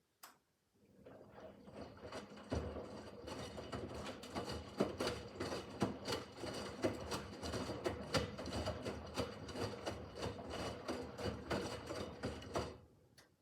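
Miele W5801 WPS washing machine's drum turning during the wash cycle, with the laundry tumbling and knocking irregularly over a low motor hum. It starts up just under a second in, runs for about twelve seconds and stops near the end, the usual turn-and-pause rhythm of a wash phase.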